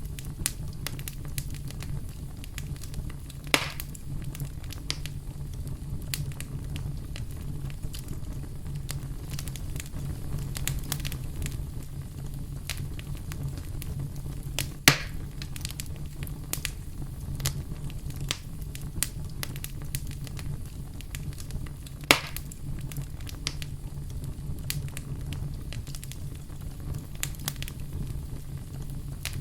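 Wood campfire burning and crackling, with frequent small snaps and three louder pops spread through, over a steady low rumble.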